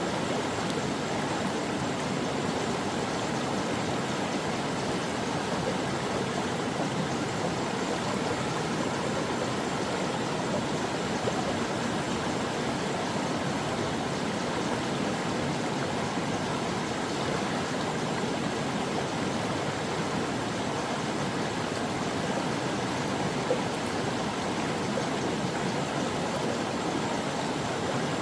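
A stream of water running over rocks, a steady, even rush and babble with no breaks.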